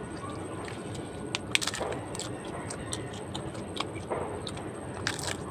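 Close-up mukbang eating sounds: wet lip smacks and chewing, with sharp crunches and clicks as raw green leaves are bitten off, the loudest about one and a half seconds in and near the end, over a steady background hiss.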